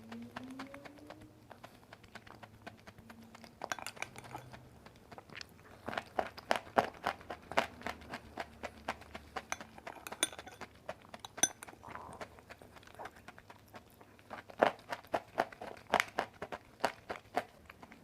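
Close-up chewing of dry white clay: sharp, irregular crunches as it breaks between the teeth. They come sparsely at first and grow into quick runs of crunches in the middle and near the end.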